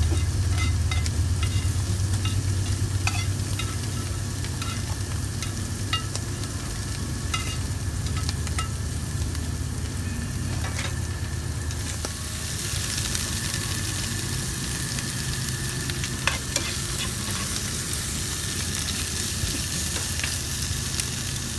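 A metal utensil clicks and scrapes against a griddle as cooked onions and peppers are cleared off it, over a low steady hum. From about halfway, sliced mushrooms sizzle steadily in a frying pan on a propane camp stove.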